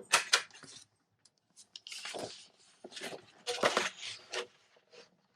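A sheet of designer series paper being handled and set on a Simply Score scoring board, giving irregular rustles, crinkles and short clicks in several small clusters.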